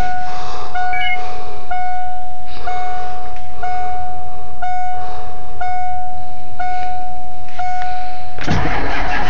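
Pickup truck's dashboard warning chime dinging about once a second, nine times, with the key on before a cold start. Near the end the 1996 Ford 7.3L Powerstroke V8 turbodiesel begins cranking on the starter in 15-degree cold after nine hours without a block heater.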